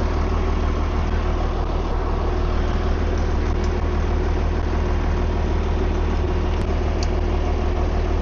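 Farm machinery running steadily, with a deep hum under a constant mid-pitched whine.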